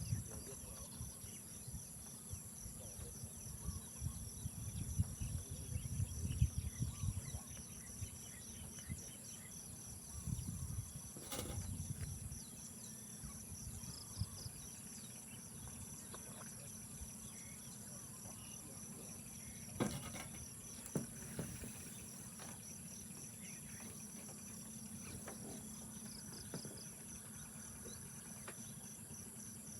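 Insects, crickets among them, chirping in a steady high trill over a quicker pulsing chirp. Low rumbles come and go in the first half, and a few sharp knocks fall about 11 and 20 seconds in.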